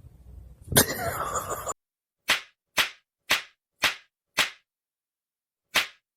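A sudden burst of noise lasting about a second, then a repeated swish-like sound effect: short sharp strokes, each falling in pitch, about half a second apart, seven times in all, with dead silence between.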